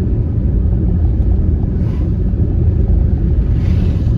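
Steady low rumble of a Honda Freed minivan driving along a town road: road and engine noise.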